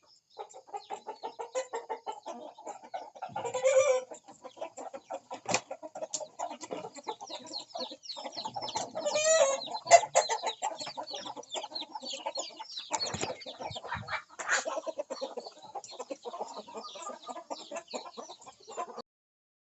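Chickens clucking busily, with a couple of louder rooster calls standing out about four seconds in and near the middle; the sound cuts off abruptly shortly before the end.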